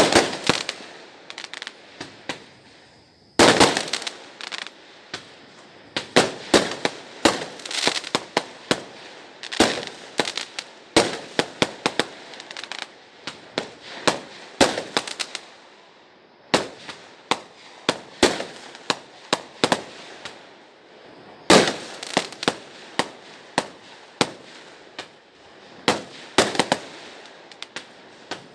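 Fireworks and firecrackers going off in an irregular string of sharp bangs, with a few louder blasts standing out and a faint crackle between them.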